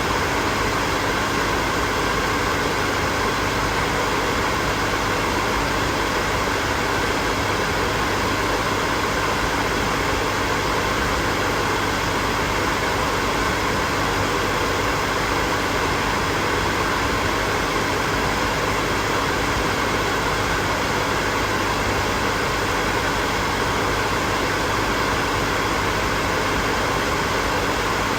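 Hair dryer running steadily: a constant rush of blown air with a faint, even motor hum underneath, unchanging throughout.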